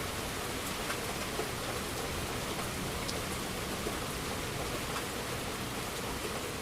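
Steady rain falling on a surface, an even hiss with scattered individual drop ticks. No thunder rumble is heard.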